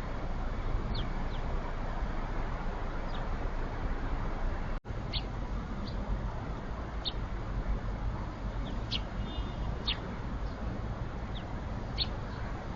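Small birds giving short, high, falling chirps every second or two over a steady background rush of noise. The sound drops out for an instant about five seconds in.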